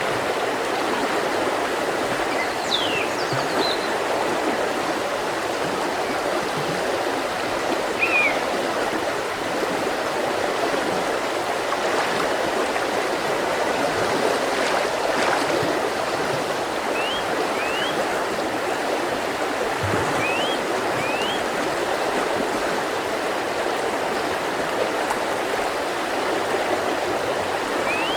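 Mountain river flowing steadily over rocks in an even rushing, with a few short, high bird chirps now and then.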